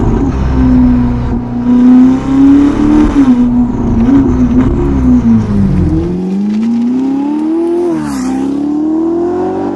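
Ferrari SF90 Spider's twin-turbo V8 running through a Novitec sport exhaust. The engine note wavers at first, then drops about six seconds in and climbs steadily under acceleration, with a brief dip near eight seconds, like a quick upshift, before rising again.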